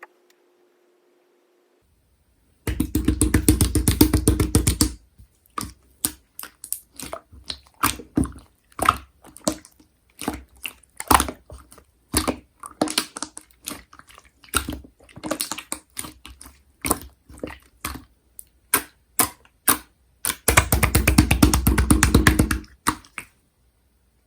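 Two-tone ice-cream slime being squished and stretched by hand, giving rapid wet clicking and popping. Two stretches of fast, dense crackling, about three seconds in and again near the end, with scattered single pops in between.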